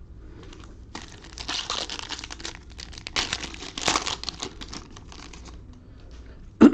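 Foil trading-card pack wrapper crinkling and tearing as it is opened, in dense bursts from about a second in until shortly before the end.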